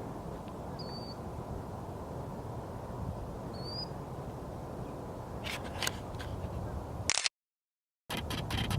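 Steady low outdoor background rumble with two brief high bird chirps, about a second in and near four seconds. A few sharp clicks come near the end, and the sound cuts out completely for under a second just before the end.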